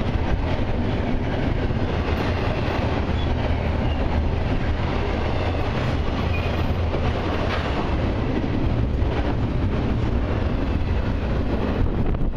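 Double-stack intermodal freight cars of a passing freight train rolling by, a steady rumble of steel wheels on rail. The last car clears near the end.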